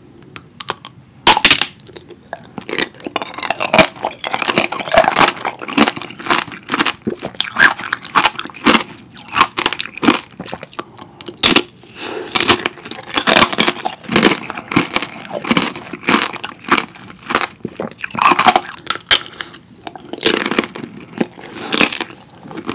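Close-miked biting and chewing of tanghulu, fresh strawberries in a hard candy shell: the sugar coating cracks and crunches in many sharp snaps, the loudest crack about a second in as a strawberry is bitten.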